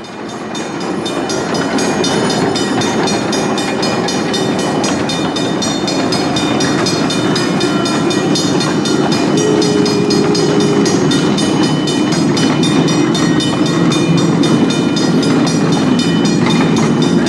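A 12-inch gauge live steam train running on its track, with a steady rapid clatter of wheels on rail that builds up over the first couple of seconds and then holds.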